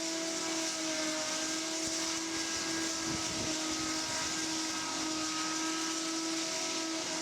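Flying bike's rotors running at a steady speed: a constant whining hum over a rushing hiss, like a large drone.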